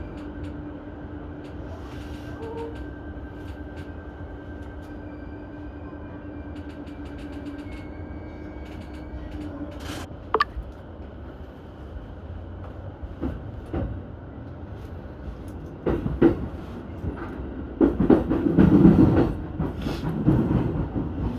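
Keihin-Tohoku Line E233-series electric commuter train running, heard from the front car: a steady running rumble with a held hum for about the first ten seconds, then louder irregular clattering and rumbling from the wheels on the track in the second half.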